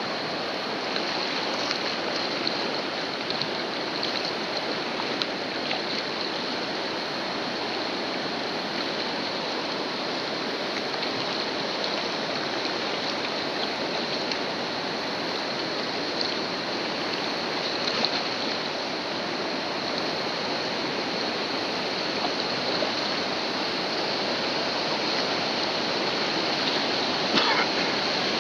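Whitewater river rushing and churning around a kayak in a big-water rapid, with a few sharp splashes, heard close up from a helmet-mounted camera. It grows gradually louder toward the end.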